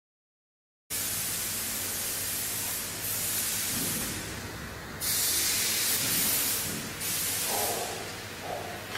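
CNC wood router at work: a loud, steady hiss from the spindle and cutting starts abruptly about a second in and swells and eases in stretches every couple of seconds, over a low steady hum.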